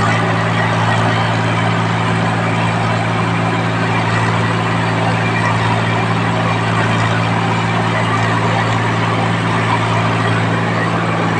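Tractor's diesel engine running at a steady speed, a low even drone that holds the same pitch throughout.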